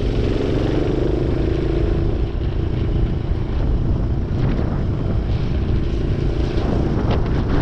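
Minibike engine running steadily while being ridden, with the choke still partly on.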